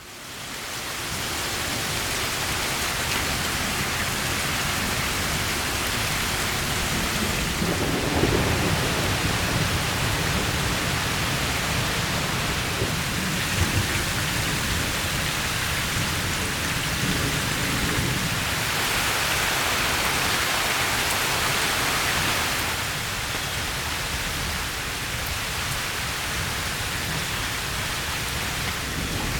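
Steady heavy rain falling, with a low rumble of thunder underneath. It fades in over the first second.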